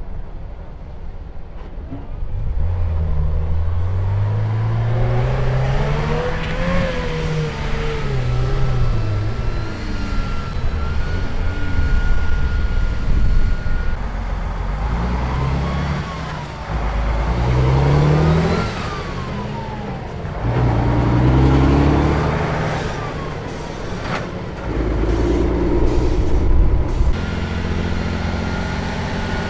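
Truck engine revving up and down several times, its pitch climbing and falling repeatedly as it works under load.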